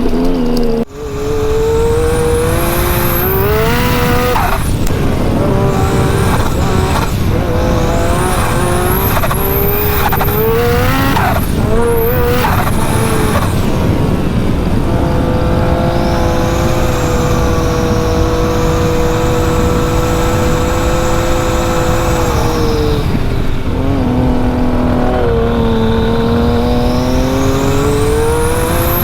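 Big-turbo Yamaha YXZ's three-cylinder engine under hard throttle, revving up and dropping back several times, with a high turbo whine that climbs with each pull. Through the middle it holds a fairly steady pitch for several seconds before easing off and building again near the end.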